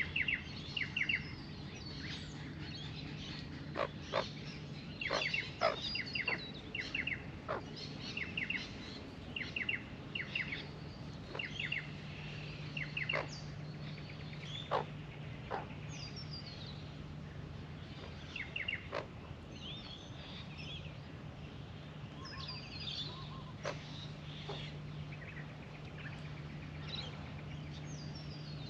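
Australian magpies making soft warbling calls: quick chirps and short trills, repeated every second or two.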